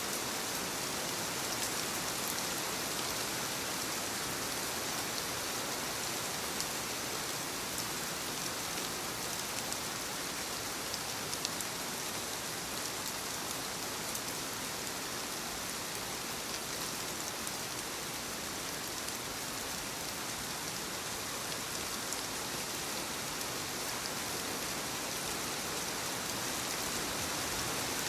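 Steady light rain pattering on leaves, a dense even hiss with scattered individual drop ticks.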